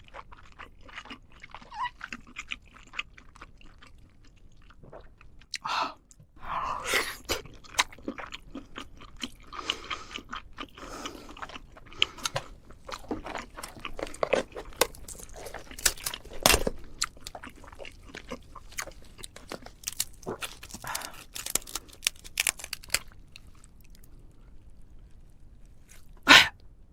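Close-up eating sounds: a person biting and chewing food with many irregular crisp crunches and wet chewing noises, sparse at first and busier from about six seconds in, with one loud crunch near the end.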